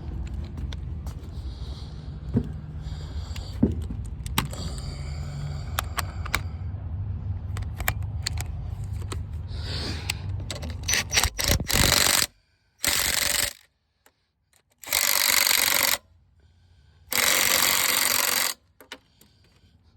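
Tools clicking and knocking against metal over a low steady hum, then three loud hissing blasts of about a second each, cut apart by sudden silences.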